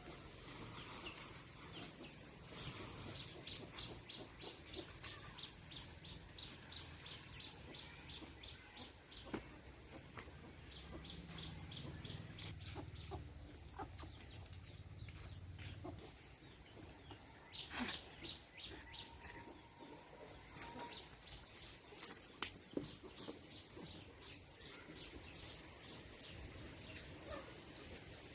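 Birds calling outdoors: several runs of quick, evenly repeated high chirps, each lasting a few seconds, with scattered light clicks and knocks between them.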